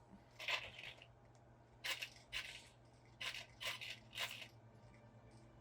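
Six short scraping, rustling sounds over about four seconds, from hands handling a dirty, sandy RC truck.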